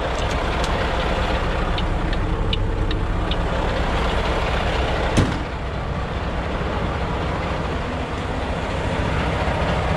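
Semi truck's diesel engine idling steadily, with a few light clicks and one sharp knock about five seconds in.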